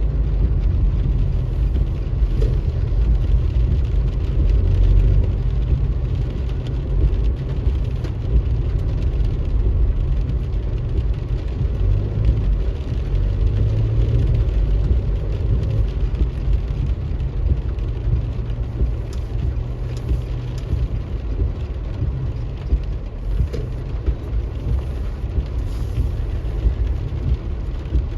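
Car driving in the rain: a steady low rumble of engine and road noise, with a few faint ticks.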